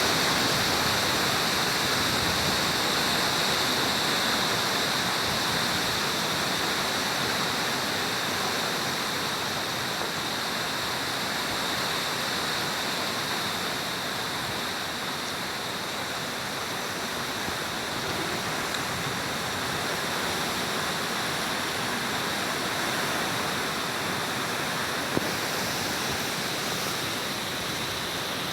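Steady heavy rain with strong wind, an even rushing hiss that eases slightly over the first half. A single sharp tick near the end.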